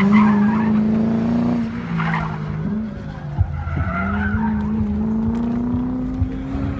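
V8 engine of a BMW E30 pulling hard through a cone course: its note dips in pitch for about a second near two seconds in, then climbs steadily as the car accelerates. The tyres squeal in places.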